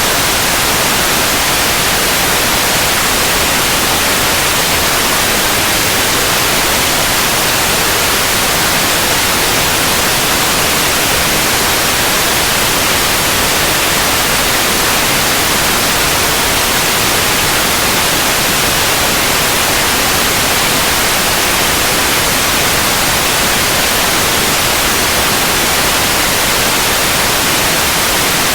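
Steady, unbroken white noise: an even hiss across the whole range, brightest in the treble, generated as a sleep sound.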